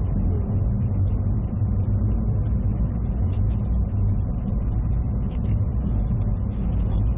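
Cabin noise inside an E657-series limited express car running along the track: a steady, loud low rumble of the train in motion.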